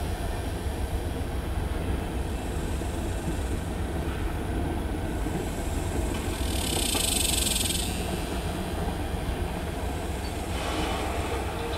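Union Pacific manifest freight of tank cars and covered hoppers rolling past in a steady rumble of wheels on rail, with a brief high hiss just past the middle.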